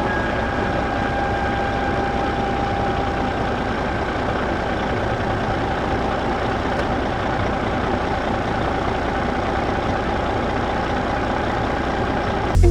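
Steady, unbroken tractor engine running sound, low and even, with a faint steady whine that fades away over the first few seconds.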